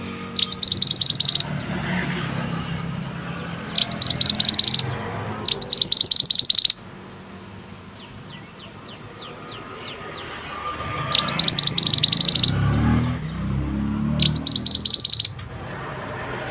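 Mantenan (pied bushchat) singing: five loud bursts of rapid, evenly repeated high chattering notes, each lasting about a second, with a faint run of quieter notes between the third and fourth bursts.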